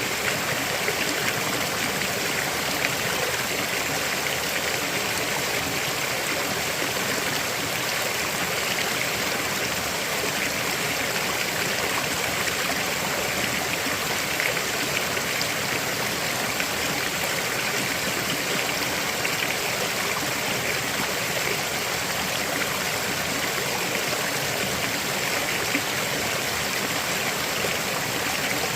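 River water flowing over rocks in a steady rush, with fine trickling and gurgling in it.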